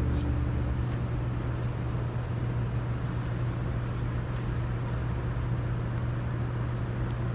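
Ambient room sound in a large cathedral between pieces: a steady low hum under a faint rumbling hiss, with the last of the music dying away at the very start and a few faint clicks.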